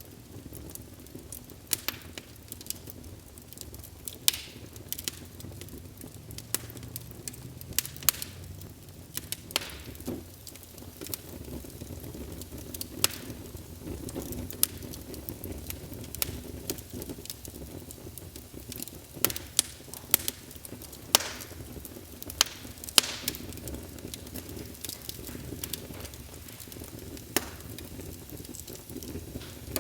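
Wood fire in a fireplace crackling, with irregular sharp pops and snaps over a low, steady rumble of flame.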